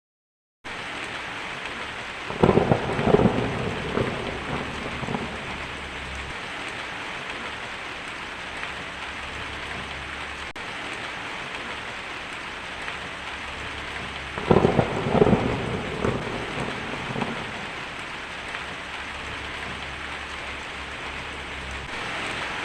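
Steady heavy rain starts abruptly under a second in. Crackling rolls of thunder break over it twice, about two seconds in and again about fourteen seconds in, each lasting around three seconds.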